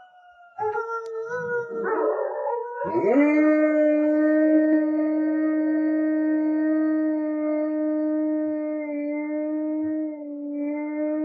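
A dog howling. A wavering start under a second in swells at about three seconds into one long, steady howl that holds for some eight seconds.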